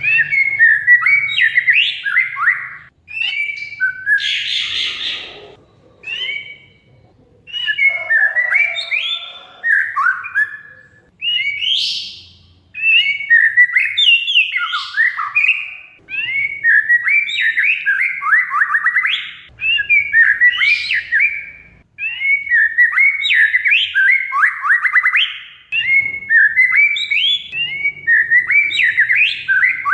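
Oriental magpie-robin (kacer) singing loudly: rapid runs of varied whistled and gliding phrases, delivered in bursts separated by short pauses. Many phrases end in fast chattering trills.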